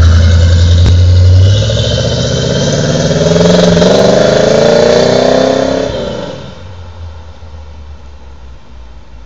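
1977 Corvette's 350 small-block V8 running through a custom-built exhaust: a deep rumble, then rising in pitch as it accelerates, then falling to a much quieter level about six seconds in.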